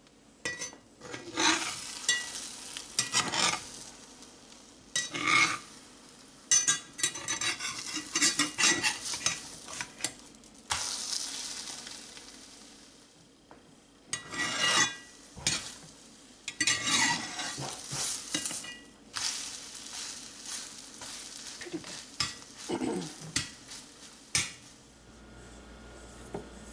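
Eggs sizzling in hot oil in a cast-iron pan, with uneven bouts of a utensil scraping and clattering against the cookware. The sizzle is the sign of a pan at the right frying temperature.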